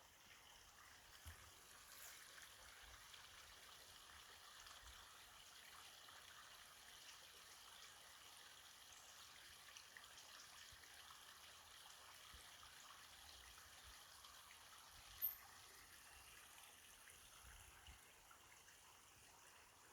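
Faint, steady rushing of a mountain stream. About fifteen seconds in there is one brief, high-pitched chirp.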